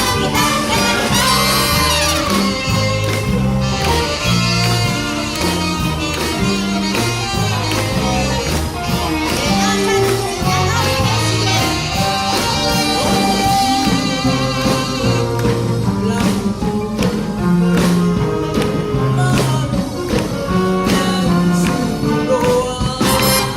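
Live big-band jazz: a walking bass line under horn and wind melodies, with drums keeping a steady beat.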